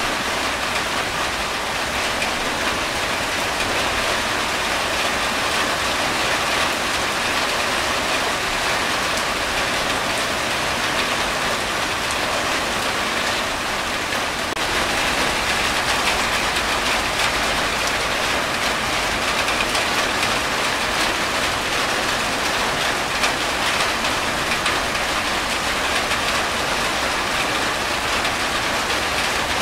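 Steady rain falling on a corrugated tin roof, with water streaming off the roof edge; it grows a little louder about halfway through.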